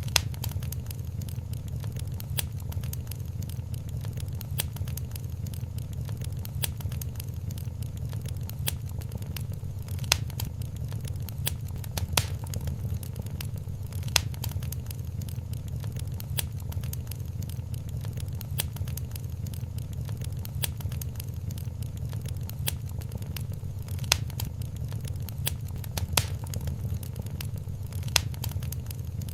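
Wood fire burning in a fireplace: a steady low rumble of the flames with constant small crackles and an occasional louder pop.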